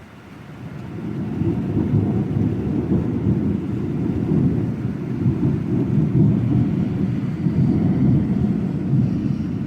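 Long roll of thunder: a deep rumble that swells over the first second or so, holds for several seconds and begins to fade near the end.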